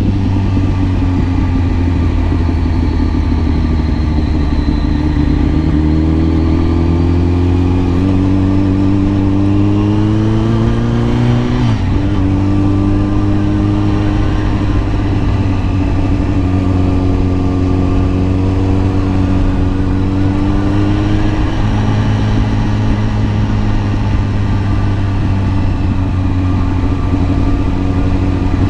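Kawasaki ZX-10R's inline-four engine running on the road. Its note climbs steadily for several seconds as it accelerates, drops suddenly about twelve seconds in at a gear change, then holds a steady pitch, with another small drop a little past twenty seconds.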